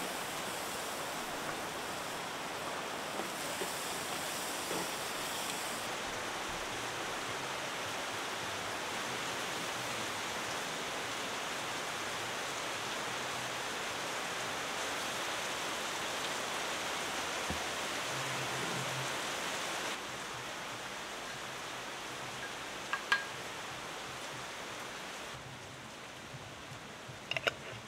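Steady sizzling of onions and green chilies frying in oil in a clay pot. It drops quieter about two-thirds of the way through, and a few sharp clicks come near the end.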